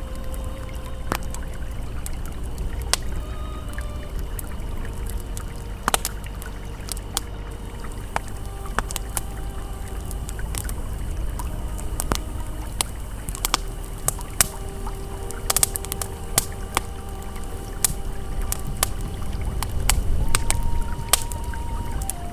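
A campfire crackling, with sharp irregular pops, over the steady rushing of a flowing river. Faint held ambient tones sit in the background.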